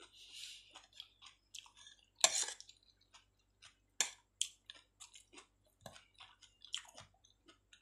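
Close-up chewing of food, with a spoon and fork clicking and scraping on a plate as food is cut up. Many short, scattered clicks, the sharpest about two seconds in.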